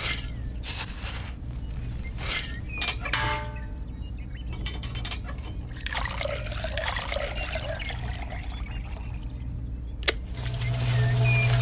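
A small motor hums steadily under liquid trickling and gritty scraping. A sharp tick comes about ten seconds in, and then the motor hum grows clearly louder.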